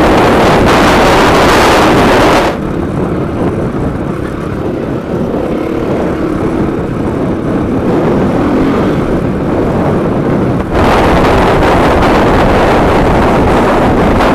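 Off-road motorcycle engine running under way, heard from a helmet camera with heavy wind rush over the microphone. The wind is loud for the first couple of seconds, then drops suddenly so the engine's drone comes through more clearly. Near the end, about 11 s in, the loud wind returns abruptly.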